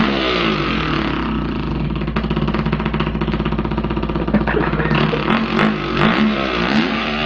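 A man imitating a two-stroke dirt bike with his voice: a buzzing, rapidly pulsing engine-like drone whose pitch rises and falls several times, like revving and shifting gears.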